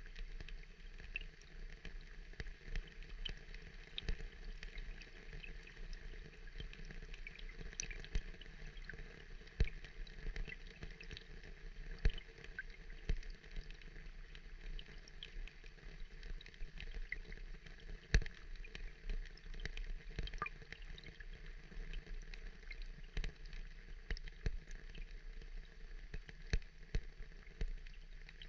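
Water dripping and trickling: a steady watery hiss dotted with many small drips and plinks, with a few sharper ticks.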